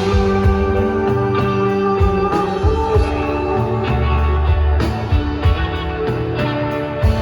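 Live rock band playing a slow song: electric guitar notes ringing over bass, with a steady drum beat.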